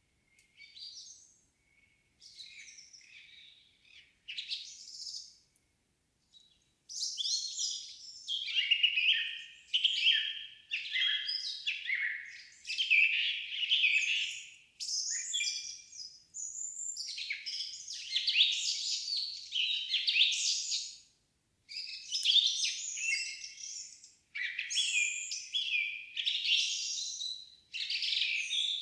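Songbirds singing in an evening forest with no wind. The first few seconds hold a few faint, scattered notes, then from about seven seconds in there are loud, rich song phrases in quick succession with short pauses between them.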